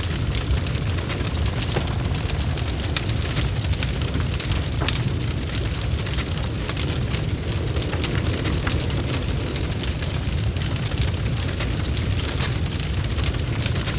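Bonfire crackling: a dense stream of quick pops and snaps over a steady low rumble of the burning fire.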